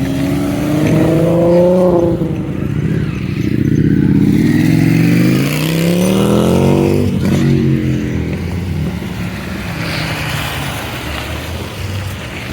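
Car engine accelerating hard, its pitch rising twice and dropping sharply about seven seconds in, then running more evenly.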